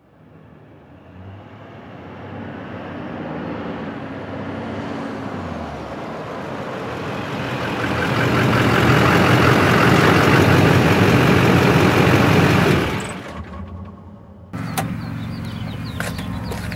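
A motor vehicle's engine running, growing steadily louder over several seconds, then fading away fast about thirteen seconds in. After a break, a quieter steady hum with a few sharp clicks.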